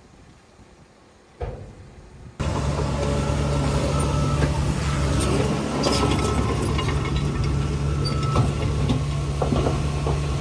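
Heavy diesel engine of earthmoving machinery running steadily, starting abruptly about two and a half seconds in after a quiet opening, with scattered clanks over it.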